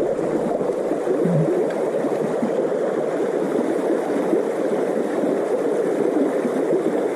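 River water running steadily, a constant rushing wash.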